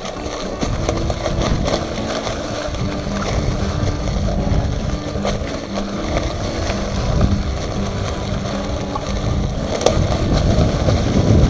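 Wind rushing over the microphone and bicycle tyres rumbling over a dirt trail as the bike rolls along.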